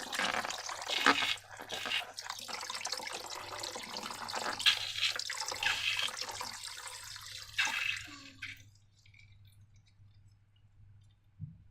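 Wet, sticky slime being handled, with irregular squelching and dripping sounds and many small clicks. It stops about eight and a half seconds in, leaving near silence.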